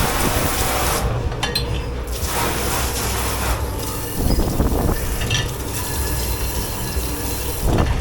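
Dish-pit washing-up: running and spraying water with dishes and metal racks knocking and clattering, over the steady hum of kitchen machinery.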